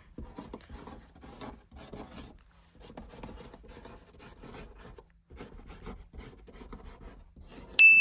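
Irregular rubbing, scraping and rustling, like close handling noise on the microphone, with a short electronic beep at the very end.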